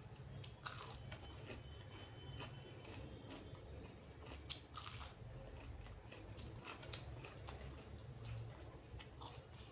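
A person eating close to the microphone: biting and chewing food, with scattered crunches and mouth clicks over a low steady hum.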